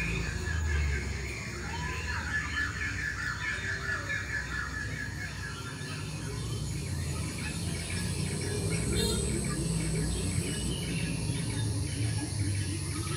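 Birds chirping, with a rapid trill through the first few seconds and scattered short calls after, over a steady low rumble.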